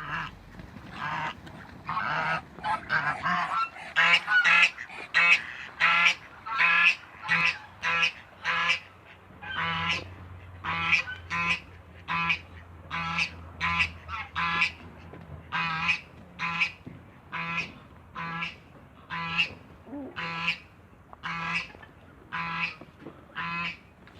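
Birds calling: a long series of short, harsh calls, roughly two a second with brief gaps between them.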